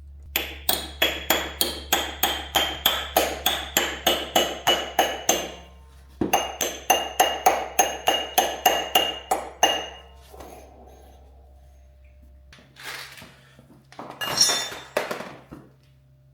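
Hammer striking metal in rapid, even blows, about three a second, each one ringing. The blows come in two runs of several seconds with a short pause between. A couple of rougher, louder clanks follow near the end.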